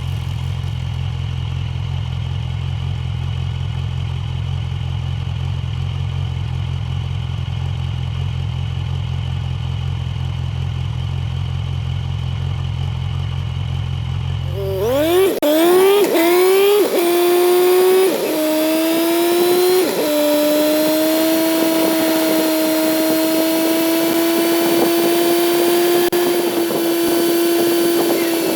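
Kawasaki Z900's inline-four engine idling. About halfway through, the bike pulls away: the engine pitch rises and drops back four times in quick succession as it shifts up through the gears, then holds steady at a cruise.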